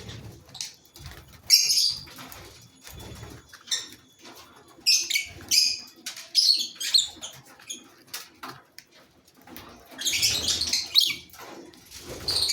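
Fisher's lovebirds chirping shrilly in three short bursts, with soft thumps and rustles in between.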